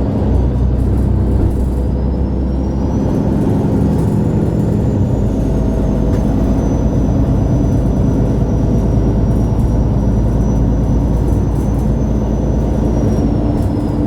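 2011 MAN A23 Lion's City G (NG323) articulated bus driving, heard from on board: steady engine and running noise with a thin high whine that rises early on, holds, and falls away near the end.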